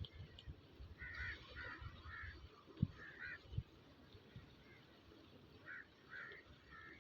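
Crows cawing: a run of short, harsh calls, then a few more near the end, over low thumps and rumble.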